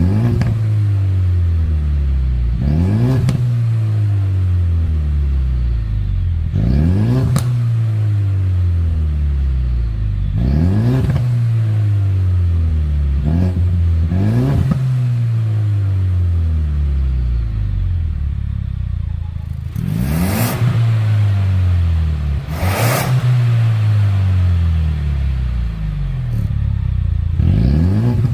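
Ford Mustang 2.3 EcoBoost's turbocharged four-cylinder revved repeatedly through a Code R1 valved cat-back exhaust: about eight quick blips, each rising sharply and falling slowly back toward idle. Two of the later revs carry sharp cracks.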